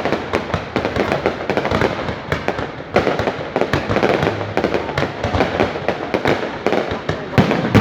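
Fireworks going off: a dense, continuous run of bangs and crackles, growing louder about three seconds in.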